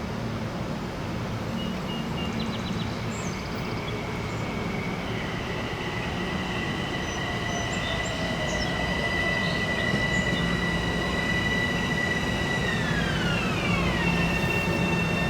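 Metro-North Bombardier M7 electric multiple-unit train running by, its rumble under a steady high-pitched electric whine that slides down in pitch near the end.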